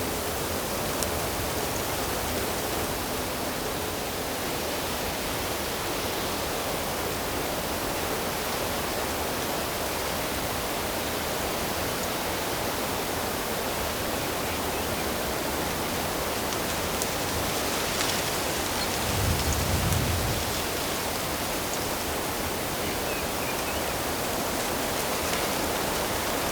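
Steady rush of running water from a stream, with a brief low rumble about twenty seconds in.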